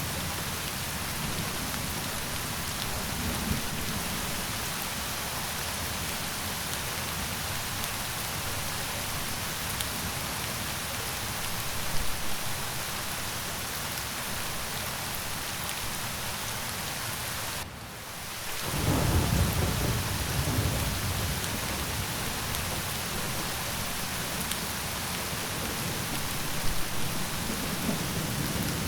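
Steady rain hissing on surfaces, with low rolling rumbles of thunder that swell a few times. The loudest rumble follows a brief drop in level about two-thirds of the way through.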